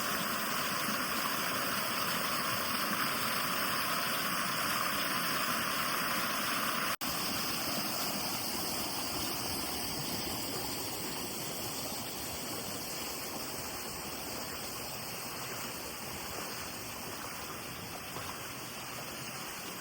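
Waterfall rushing steadily. There is a momentary break about seven seconds in, after which the rush is a little softer.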